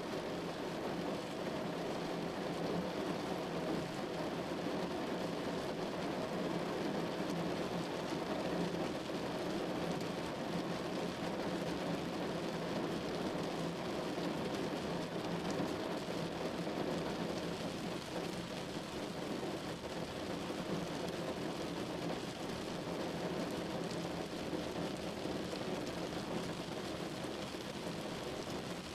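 Steady rain pattering on a window pane, an even, unbroken rush with its weight in the lower tones.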